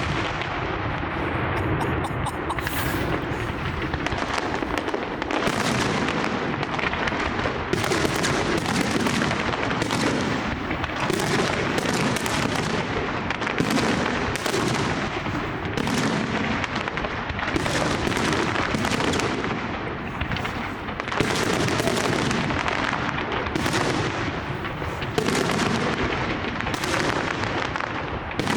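Large aerial fireworks display: a dense, unbroken barrage of shell bursts and crackle, with sharp reports about once a second.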